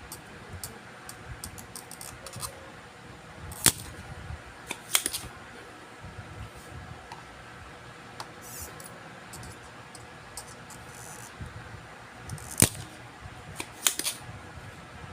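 Sharp clicks and snaps of small hand tools handled on a repair bench, four louder ones in two pairs, over a steady fan hum.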